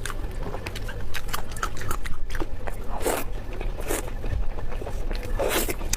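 Close-miked mouth sounds of a person eating: wet chewing and smacking clicks, with two longer, louder wet sounds about three seconds in and near the end.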